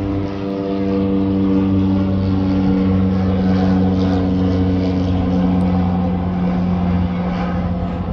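Propeller-driven military transport plane flying past low, a loud steady droning hum whose pitch slowly falls as it goes by.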